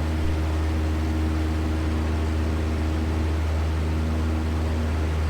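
Cessna 172's piston engine and propeller droning steadily at climb power, a constant low hum with an even rushing noise over it.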